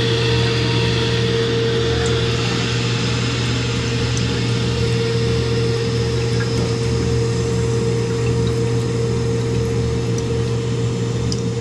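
Toilet tank refilling after a flush: the original Ferguson ballcock fill valve hissing steadily as water runs into the open tank, with a steady humming tone in it.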